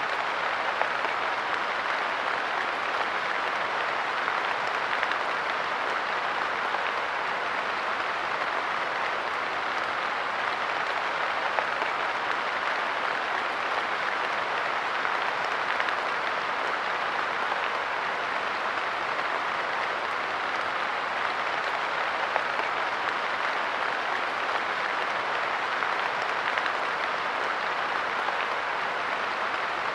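Steady light rain pattering on a park bench, a dense even hiss of countless small drops with no letup.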